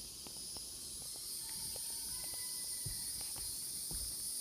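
Steady, high-pitched chorus of insects, with a few faint clicks and soft thumps.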